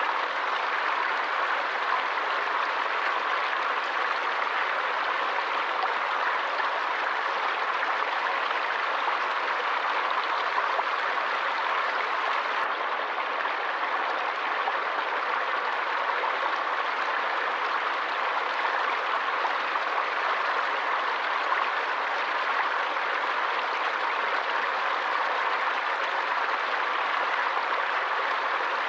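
Stream water flowing and rushing steadily in an even, unbroken hiss with no birds or other sounds over it.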